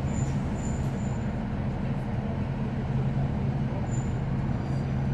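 Diesel engine of a Class 156 'Super Sprinter' DMU (a Cummins NT855) droning steadily as heard from on board, with a few faint, brief high-pitched tones over it.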